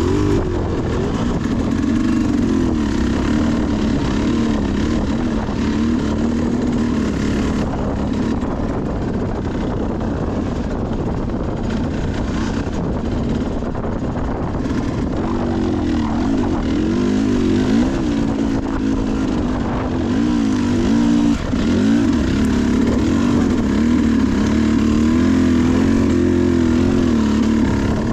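Sherco SE300 two-stroke enduro dirt bike engine running under load, its revs rising and falling continually, with a brief dip about three-quarters of the way through.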